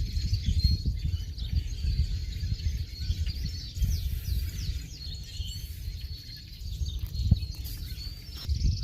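Small birds chirping and twittering, with many short high calls and quick downward sweeps, over a louder uneven low rumble.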